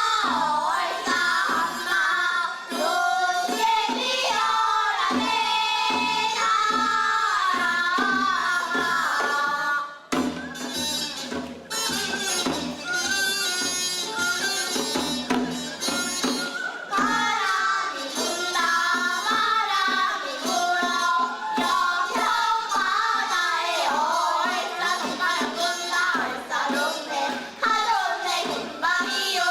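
Women's voices singing a Korean seodo sori folk song together, with a drum keeping time; the singing breaks off briefly about ten seconds in, then carries on.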